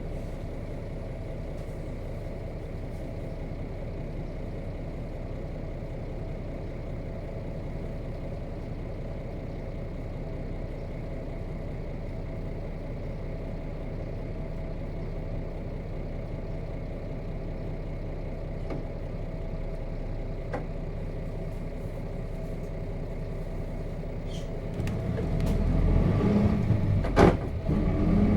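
Nissan Diesel KC-RM211GSN bus's FE6 diesel engine idling steadily. About 25 seconds in it revs up as the bus pulls away, with a single sharp click a couple of seconds later.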